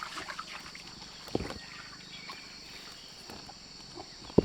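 A steady high-pitched insect chorus in the wet night, with two short dull thuds, one about a second in and a louder one near the end.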